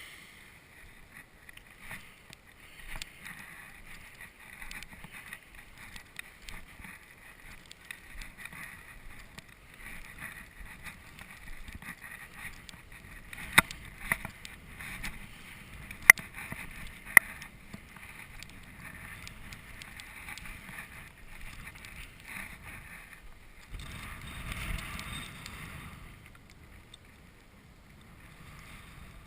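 Footsteps crunching through drifted snow, with wind noise; three sharp clicks, the loudest sounds, about halfway through, and a louder rush of wind on the microphone near the end.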